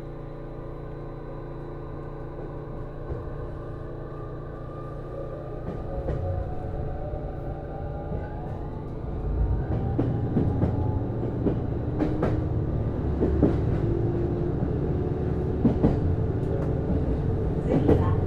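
JR East HB-E210 series hybrid railcar pulling away, heard from inside the car. The Hitachi IGBT-VVVF traction whine rises in pitch as it gathers speed, and the low running rumble grows louder. In the second half, single wheel clicks over rail joints come every few seconds.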